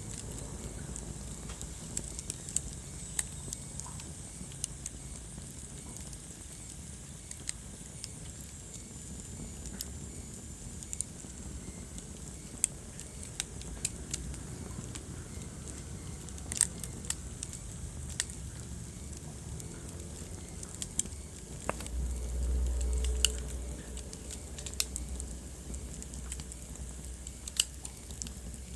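Wood fire burning in a fireplace: scattered sharp crackles and pops over a low, steady rumble of flame, which swells louder for a couple of seconds about three-quarters of the way through.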